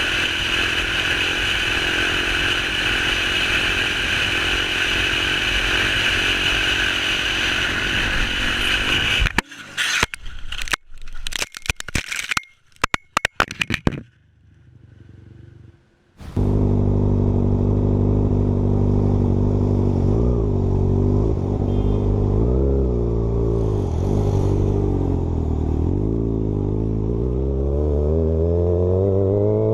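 Motorcycle riding with a steady rush of wind and road noise. About nine seconds in comes a few seconds of sharp, broken knocks and clatter, then a brief lull. After that an engine runs with a wavering pitch that climbs steadily near the end as it accelerates.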